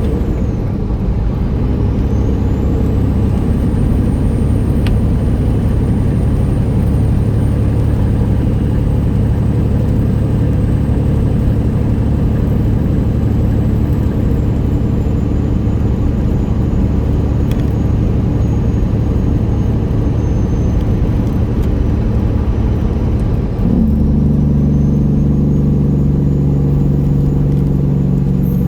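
Straight-piped Detroit Series 60 inline-six diesel of a 1999 Peterbilt 379 running steadily on the road. About 24 s in, the exhaust note steps up louder and fuller. A faint high whine drifts slowly in pitch throughout.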